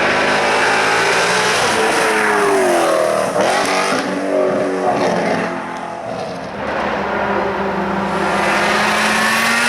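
Hill-climb racing car engine under hard use: its pitch drops sharply about two to three seconds in as it brakes and changes down, then it accelerates again and its pitch climbs near the end.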